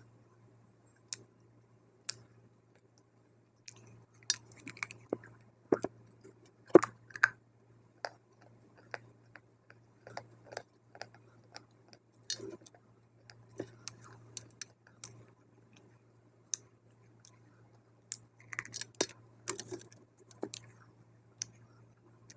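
Close-up crunching and chewing of dry multani mitti (fuller's earth clay): irregular sharp crackles and crunches as pieces are bitten and ground, sparse at first and coming thick and fast from about four seconds in. A faint steady low hum runs underneath.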